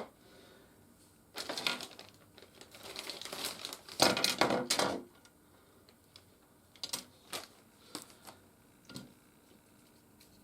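Plastic packaging crinkling and rustling in a few bursts as a sealed parts bag is handled and opened, followed by several light clicks of plastic pieces.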